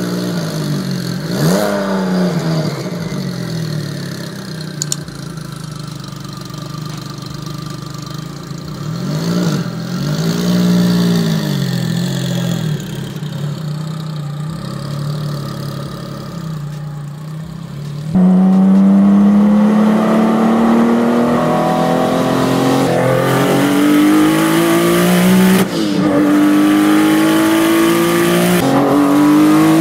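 Porsche 911-based supercar engine revving in several blips as the car pulls away. About eighteen seconds in it turns much louder into full-throttle acceleration, the engine pitch climbing and dropping back at each upshift, three shifts in all.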